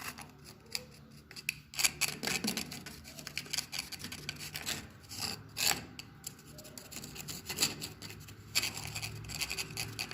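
A metal tool scraping excess mortar out of the joints between bricks, in short, irregular scratching strokes.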